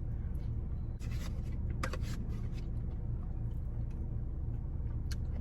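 Steady low hum of a running car heard from inside the cabin, with a few light clicks and rustles of things being handled.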